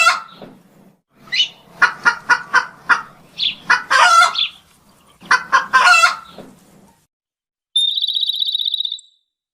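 Chicken clucking in quick runs of short calls. About eight seconds in, a small bird gives one high trill lasting about a second.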